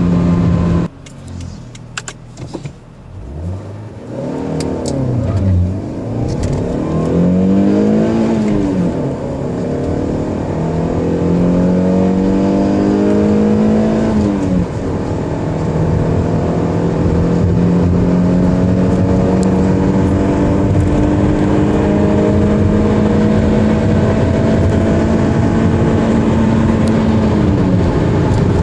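Toyota Avensis T27's 1.8-litre Valvematic four-cylinder petrol engine accelerating hard from a standstill. The engine note climbs and drops back three times at the gear changes, then holds a long steady high pitch before falling away near the end.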